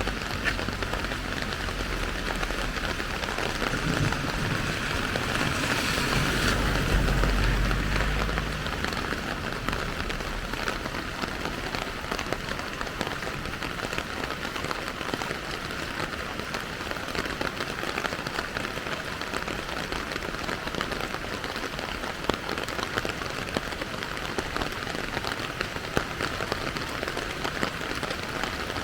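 Steady rain falling, a continuous hiss dotted with the small taps of individual drops. A low rumble runs under it for the first several seconds, then fades out.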